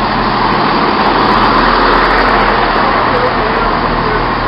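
Class 170 Turbostar diesel multiple unit running, a steady engine drone with a low hum beneath it.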